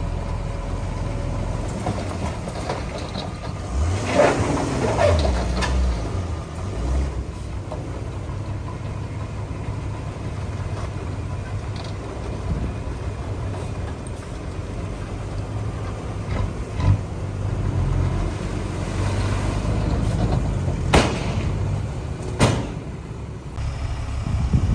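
Heavy diesel earthmoving machinery running with a steady low rumble, surging louder about four seconds in. Two sharp metallic clanks come near the end.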